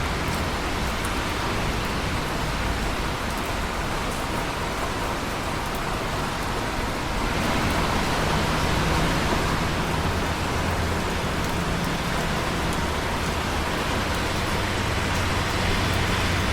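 Steady, heavy rain falling, an even hiss with faint scattered drop ticks, swelling slightly about halfway through.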